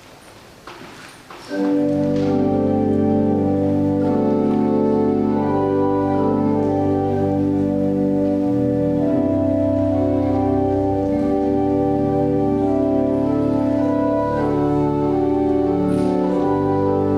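Organ playing a slow offertory with long, held chords, coming in about two seconds in after a few faint rustles.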